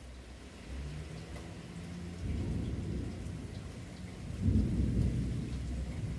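Thunder rumbling low over rain, building about two seconds in and loudest about four and a half seconds in.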